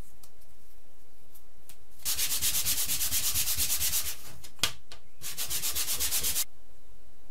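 Hand sanding a part of the model: two runs of rapid back-and-forth strokes, about six or seven a second, separated by a single sharp click.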